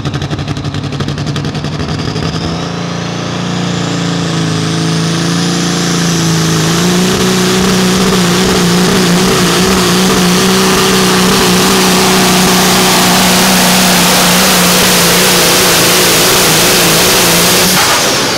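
Pulling truck's engine under full load: it climbs in steps over the first few seconds, then holds at high revs for about ten seconds, and cuts off suddenly near the end.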